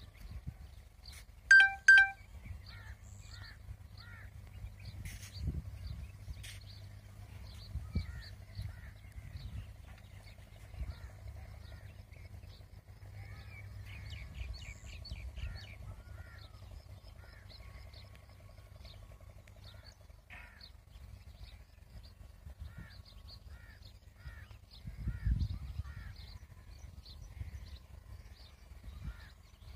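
Birds chirping on and off, with two loud crow caws about one and a half to two seconds in. A low rumble swells briefly near the end.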